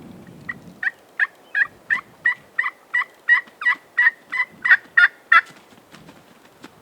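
A long series of about fourteen turkey yelps, evenly spaced at about three a second and growing louder toward the end.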